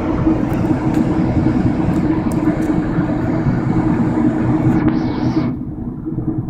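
Amtrak passenger train running at speed: a steady, loud rumble of wheels on the rails with a constant low drone. About five seconds in, the sound turns duller and a little quieter.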